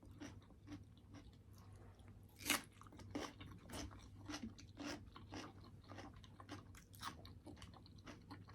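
Close-miked chewing and crunching of food, with many short wet mouth clicks and one louder crunch about two and a half seconds in, over a faint steady low hum.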